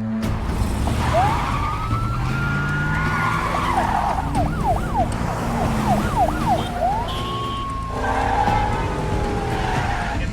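Police car siren in a long rising wail that switches to a fast yelp of about three sweeps a second, then returns to a wail that falls near the end. Loud car engine and road rumble runs underneath.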